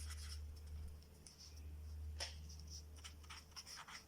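Pen scratching on paper in short, irregular strokes, over a steady low hum.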